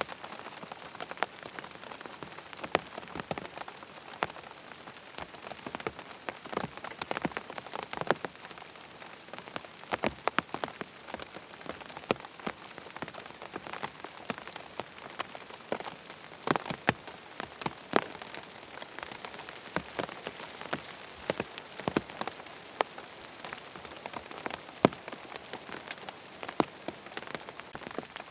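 Steady rain hissing, with many sharp, irregular drop taps scattered through it.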